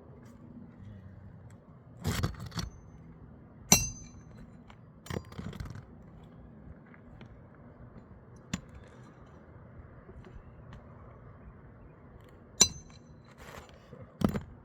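Scattered sharp metallic clinks and scrapes from hand tools working on a shingle roof. Two of the clinks ring briefly, one a few seconds in and one near the end.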